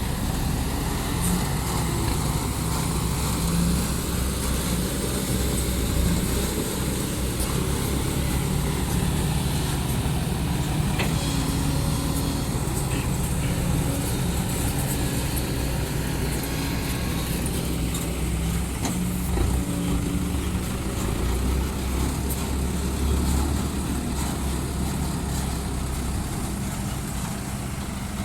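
Heavy diesel engine of earthmoving machinery running continuously, its pitch stepping up and down as the load changes.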